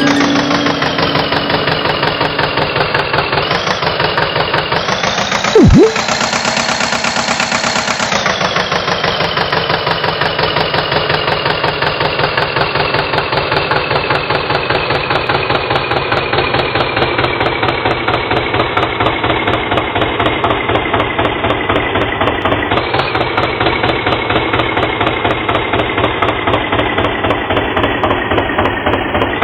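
Tractor engine running with a steady rapid chugging. It revs up around six seconds in, then settles and slowly drops in pitch. A short, loud swooping sound cuts in about six seconds in.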